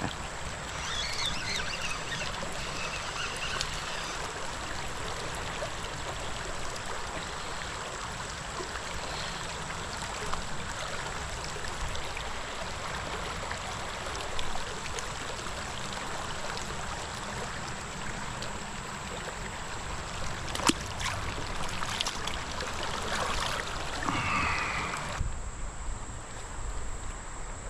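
Shallow creek water running and trickling over riffles, a steady rush with a few faint clicks; the sound changes abruptly near the end.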